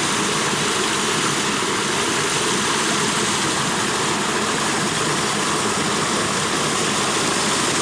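Steady rushing of flowing water in a small spring-fed stream.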